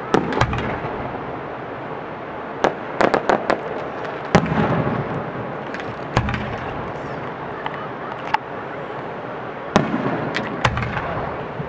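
Aerial firework shells bursting in a fireworks display: a series of sharp bangs, several followed by a deep rumbling boom, with a quick run of cracks about three seconds in and the loudest bang about four and a half seconds in. A steady background noise runs underneath.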